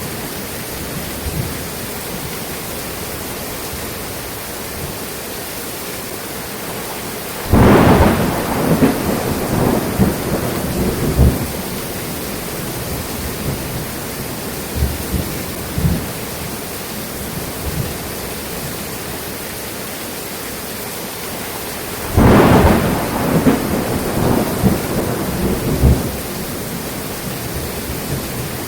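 Steady rain in a thunderstorm, with two claps of thunder, about 7 seconds in and again about 22 seconds in, each crackling and dying away over about four seconds.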